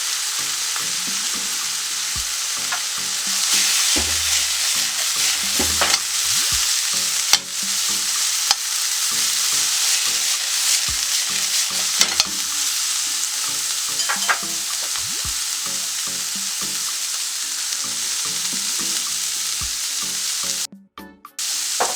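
Chicken strips and fresh broccoli sizzling in hot oil in a frying pan as they are stir-fried, with a utensil now and then clicking against the pan. The sound drops out for a moment near the end.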